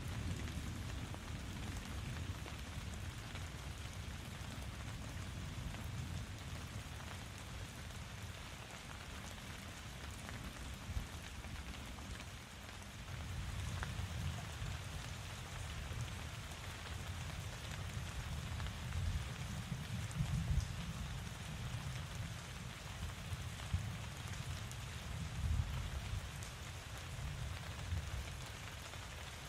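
Steady rain falling, a constant hiss with scattered drop ticks, over a low rumble that swells and fades every few seconds.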